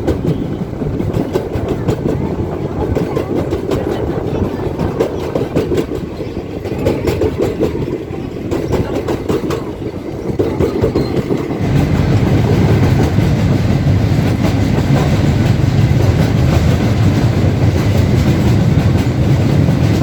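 Narrow gauge park train running on its track, a steady rumble with wheels clacking over the rail joints. Past the middle the rumble turns louder and heavier.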